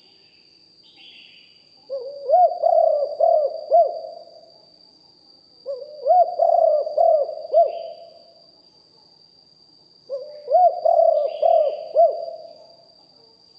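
Spotted dove cooing: three phrases of several low, bubbling coo notes, a few seconds apart. A faint steady high whine runs underneath.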